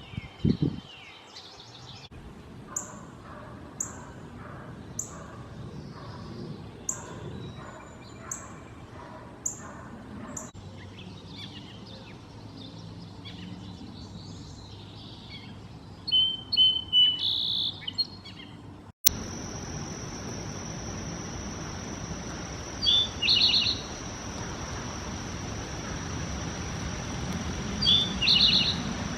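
A string of short wild-bird recordings joined one after another: first high, thin down-slurred notes repeated about once a second, then assorted chirps with a louder song phrase past the middle, then two brief song phrases over a steady high hiss.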